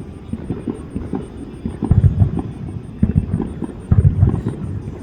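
A fireworks display: aerial shells bursting in several deep booms over a few seconds, with lighter crackling between them.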